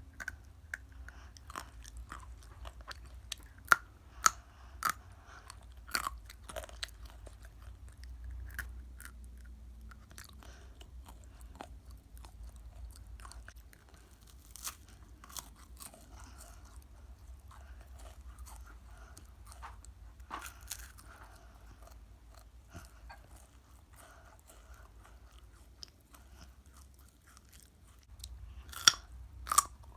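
Chewing and crunching crunchy food in the mouth, close to the microphone: irregular sharp crunches, loudest over the first several seconds and again near the end, with softer chewing in between.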